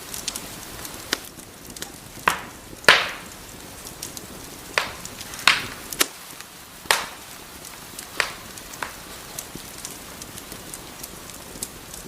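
Wood fire crackling: sharp pops and snaps at irregular intervals, the loudest about three seconds in, over a steady hiss.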